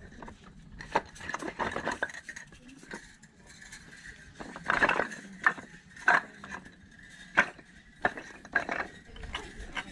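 Hard objects being handled: irregular sharp knocks and clicks with short scraping sounds in between, and a faint steady high tone underneath.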